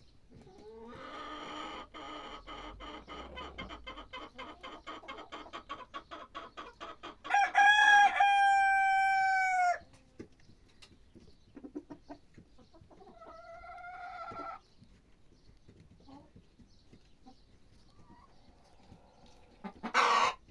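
A rooster crowing: one long, loud, held crow about seven seconds in, after a fast run of chattering calls, with a shorter wavering call a few seconds later.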